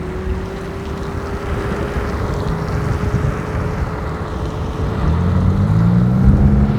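Ninebot F2 electric kick scooter riding on a wet road: a steady rush of wind and tyre noise, with a motor whine that climbs slowly in pitch as the scooter gathers speed. A lower engine hum from road traffic swells near the end.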